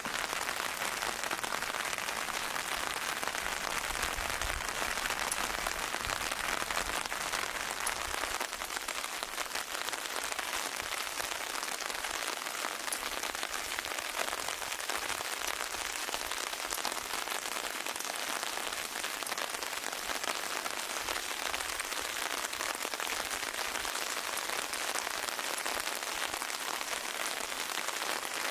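Steady rain falling on a surface, an even hiss made of many fine drop ticks, with some low rumble in the first several seconds.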